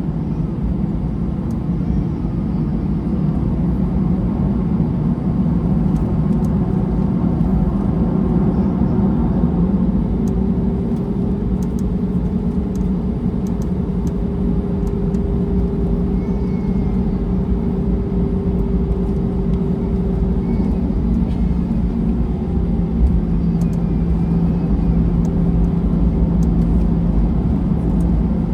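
Jet airliner cabin noise during taxiing: a steady engine hum over a low rumble, with a higher tone held through the middle and a few faint clicks and rattles.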